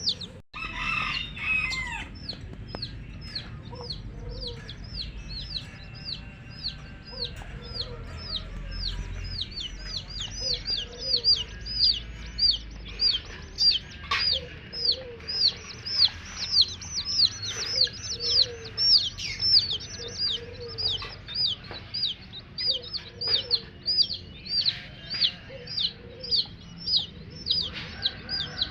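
Baby chicks peeping continuously, a run of high calls each falling in pitch, about two a second, with a hen's low clucks in between.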